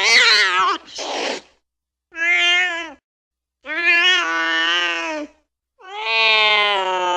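Cat yowling in four drawn-out calls with short silent gaps between them. A brief breathy burst follows right after the first call, and the last call is long and held.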